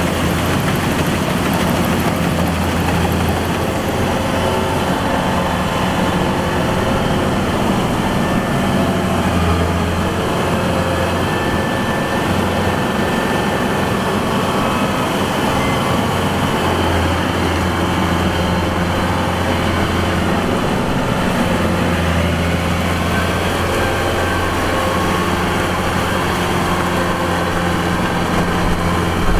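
Kubota DC-105X combine harvester running steadily under load, its diesel engine humming low and even with the harvesting machinery working.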